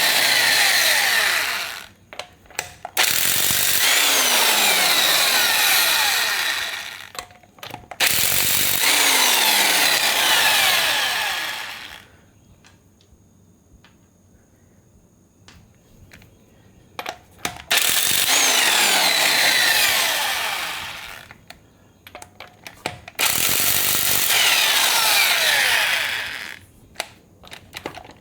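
Corded electric impact wrench taking off 22 mm wheel lug nuts: five bursts of hammering, each a few seconds long, with short pauses holding small clicks between them and a longer pause about halfway through.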